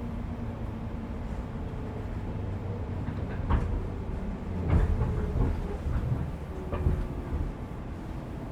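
Interior running sound of a 415 series electric multiple unit, heard from the motor car under the pantograph: a steady low rumble with the hum of the traction motors and gears. Wheels clack sharply over rail joints several times through the middle.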